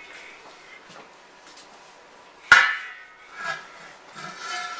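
A metal cooking pot banged against a porcelain tile floor: one sharp, ringing clang about halfway through, then a lighter knock about a second later.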